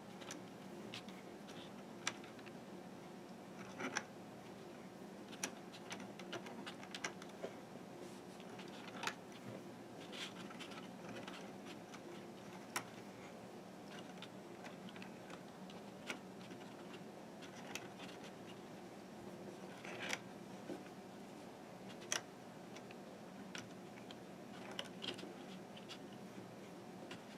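Faint, scattered clicks and scratches of rubber bands being stretched onto the plastic pegs of a Fun Loom and pushed down, over a steady low hum.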